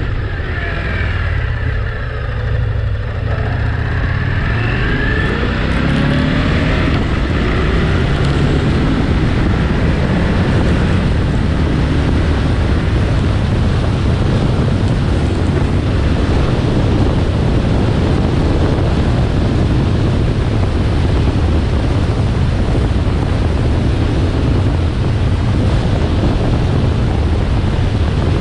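Indian motorcycle running on the road under heavy wind noise. The engine pitch rises and falls over the first few seconds, then settles into a steady drone.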